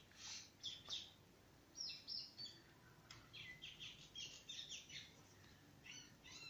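Near silence with faint, scattered high bird chirps, and the light scratch of a pen drawing on paper.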